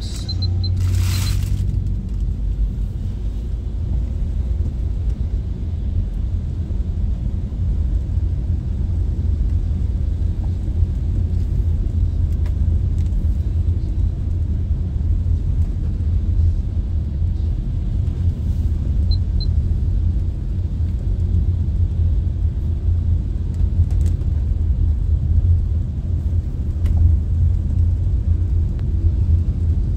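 Tractor engine running as the tractor drives, a steady low rumble. A brief hiss sounds about a second in.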